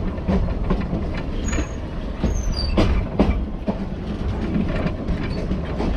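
Train running along narrow-gauge track: a steady low rumble with irregular knocking and clatter of wheels over the rail, as it passes a long line of freight hopper wagons on the next track.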